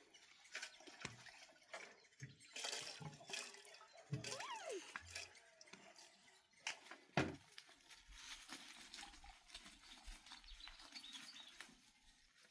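Water dripping and pattering, with scattered clicks and one sharp knock about seven seconds in.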